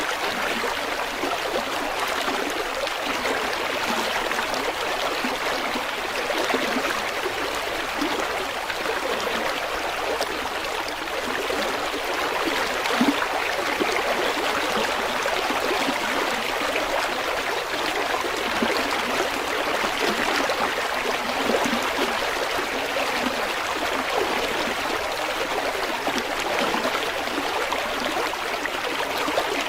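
River water flowing steadily, an even rushing noise with small gurgles and splashes.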